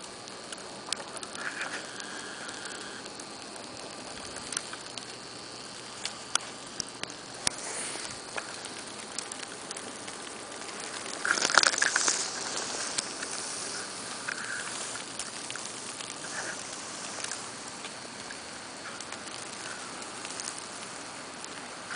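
Snowstorm: a steady hiss with scattered small ticks and patter of snow hitting surfaces, and a louder rustling burst about halfway through.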